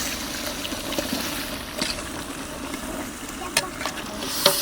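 Mutton and spices frying with a steady sizzle in a cooking pot while being stirred, with a few sharp clicks of the spoon against the pot.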